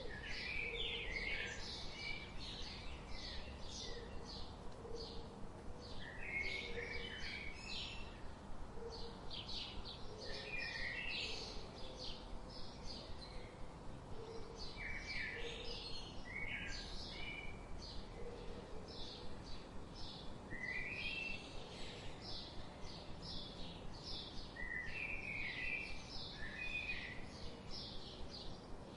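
Several songbirds chirping and singing in short repeated phrases every second or two, with faint low short notes beneath and a steady low background hiss.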